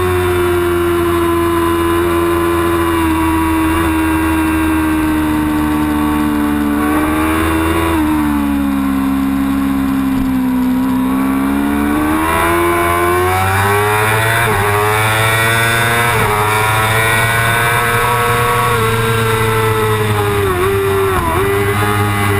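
Yamaha R6 inline-four sport-bike engine running hard at race speed. Its pitch drops from about seven seconds in as the engine slows, climbs steadily again from about twelve seconds as it accelerates, and dips twice quickly near the end.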